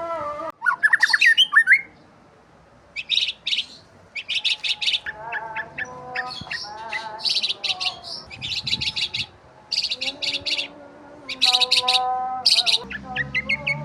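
Several birds chirping, mostly in quick bursts of rapid high trilled chirps. Lower, longer whistled notes come in between.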